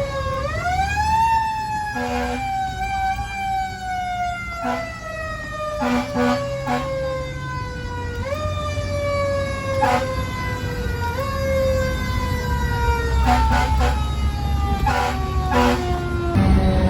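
Fire engine's mechanical siren winding up quickly, then slowly coasting down in pitch, given a couple of brief boosts along the way. Short air horn blasts sound over it several times, with a diesel engine rumbling underneath.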